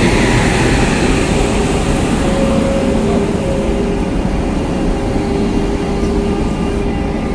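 Electric train running through the station: a steady, loud rumble with a faint hum.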